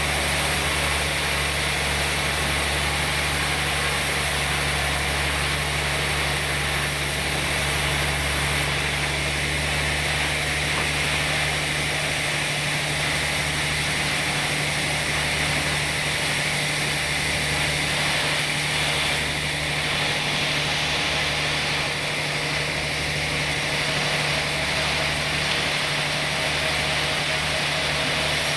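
Sawmill machinery running steadily: a constant low engine-like drone under an even hiss, with no pauses or changes in pace.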